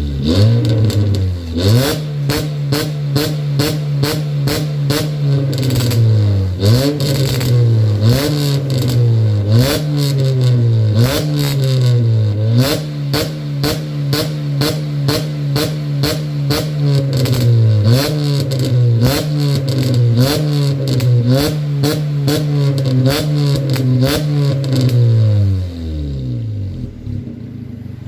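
Car engine revved in quick repeated blips through a Profit S2 aftermarket exhaust muffler, giving a deep bass exhaust note. Each blip rises fast and falls back more slowly, with sharp clicks scattered throughout, and near the end the revs drop back and the sound gets quieter.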